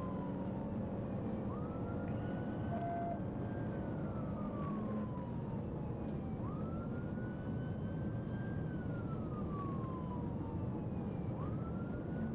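Police car siren on a slow wail, each cycle rising quickly and then falling slowly, repeating about every five seconds. Underneath is a steady rumble of road and engine noise.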